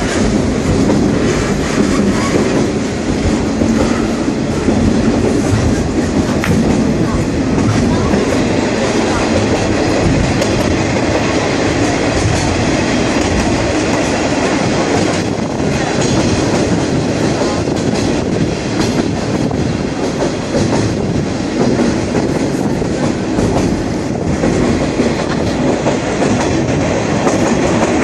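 Sagano scenic railway train running along the line: the steady rumble and clickety-clack of its wheels on the rails, heard from inside a passenger car with open windows.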